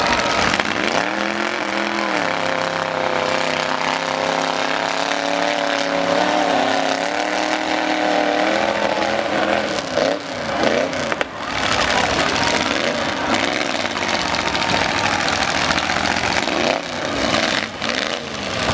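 Demolition derby truck engines revving, their pitch climbing, holding and dropping again, over a steady din of engine and crowd noise.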